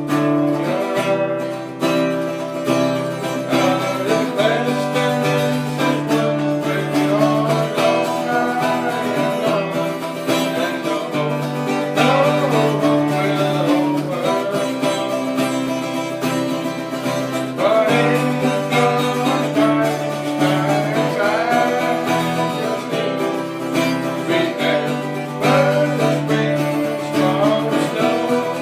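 Acoustic guitar music, steadily strummed and plucked, with a folk or bluegrass feel.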